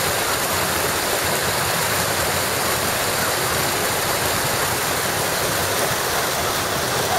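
Rushing stormwater runoff, a steady loud rush of fast-flowing water after heavy rain.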